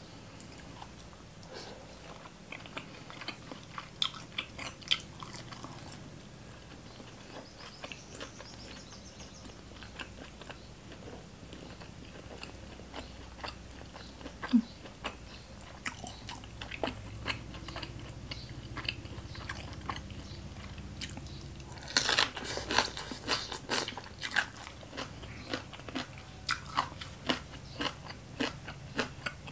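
Close-miked chewing and biting of boiled pork offal and spicy green papaya salad: wet chews and sharp mouth clicks come and go, with a dense run of loud crunching about two-thirds of the way through.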